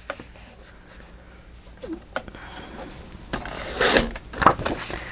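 Paper being handled on a craft table: soft rustling, then a few louder papery rustles and scrapes about three and a half to four and a half seconds in.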